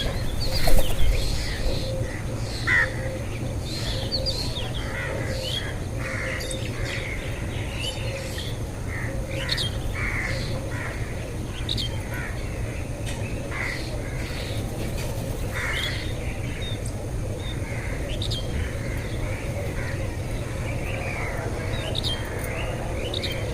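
Many birds chirping and calling at once in a steady stream of short notes, over a constant low rumble. A brief loud noise stands out a little under a second in.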